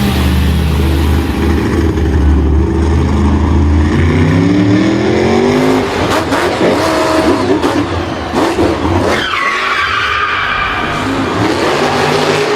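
Vehicle engines revving, with the pitch climbing about halfway through, mixed with tyre skidding and scrabbling.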